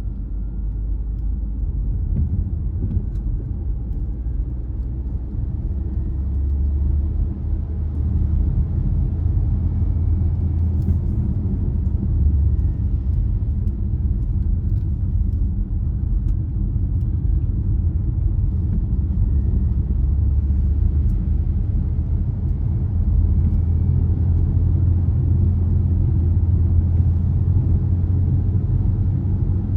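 A car driving on a road: a steady low rumble of engine and tyre noise, growing slightly louder about six seconds in.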